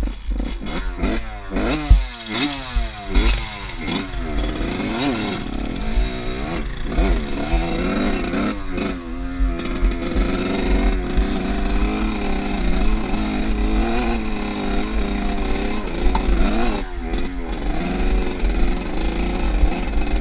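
Off-road motorcycle engine revving up and falling back again and again through the first half, then running more steadily at higher revs, with a low wind rumble on the microphone.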